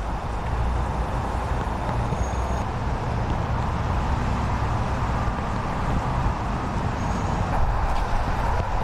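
Steady low background rumble, like vehicle traffic.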